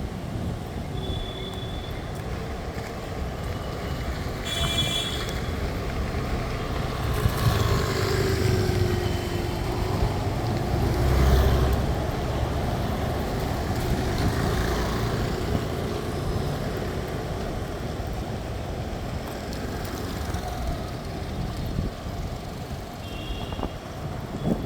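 Road traffic passing steadily, with one vehicle going by louder about eleven seconds in, and a few brief high beeps.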